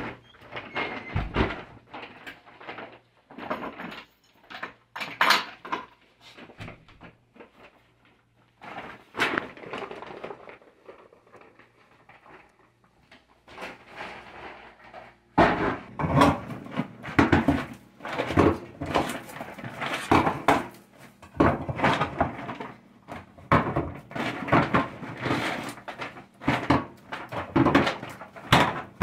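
An apartment door opening, scattered footsteps and knocks, then from about halfway a dense run of rustling and clatter as a shopping bag is unpacked and tin cans are set down on a kitchen counter.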